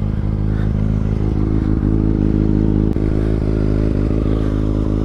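Kawasaki ZX6R 636 inline-four engine idling steadily through an M4 slip-on exhaust.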